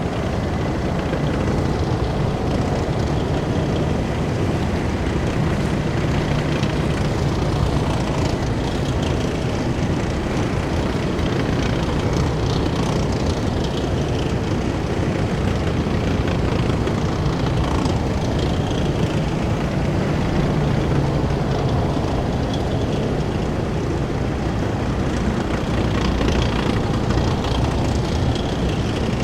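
Column of heavy military vehicles driving past, giving a loud, continuous mix of engine and road noise. The deep engine tones swell and fade as vehicles pass.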